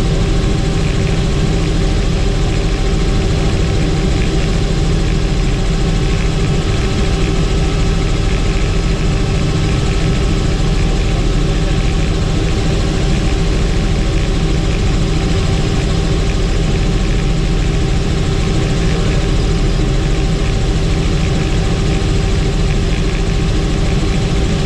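Helicopter in flight: steady engine and rotor noise with a constant drone, unchanging throughout.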